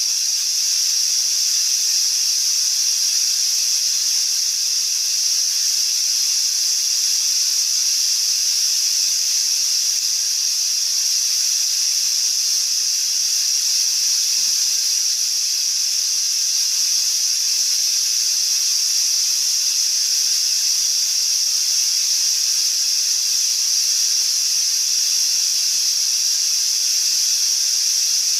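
Steady synthetic colour noise: an even hiss weighted high in the treble, with little bass.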